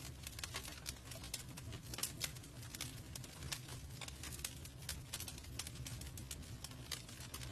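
Campfire crackling and popping: irregular sharp snaps of burning wood, a few louder pops among them, over a low steady rumble of the fire.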